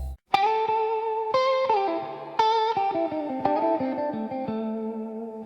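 Solo electric guitar playing a slow blues lead line: single picked notes that ring and fade, several bent up in pitch. It comes in after a brief gap, as a sustained chord cuts off.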